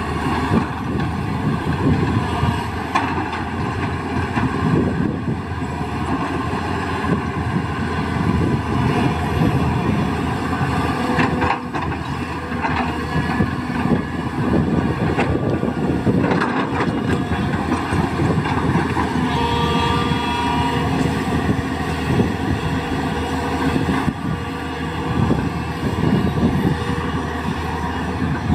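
Tata Hitachi EX200LC excavator's diesel engine and hydraulics working steadily, with a few knocks and clanks.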